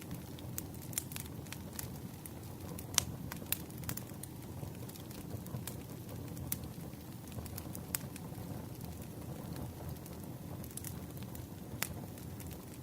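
Campfire burning: a steady low rumble of flames with scattered crackles and pops, the sharpest one about three seconds in.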